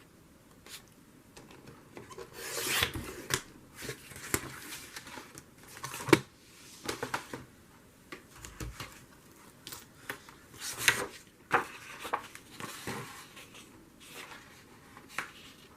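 Paper being handled and cut: irregular rubbing and scraping strokes with several sharp clicks, the sharpest about six and eleven seconds in.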